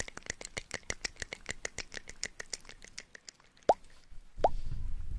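Close-miked ASMR trigger sounds: a fast run of soft clicks, about nine a second, for the first three seconds, then two louder plops that fall in pitch near the end, the second with a low rumble under it.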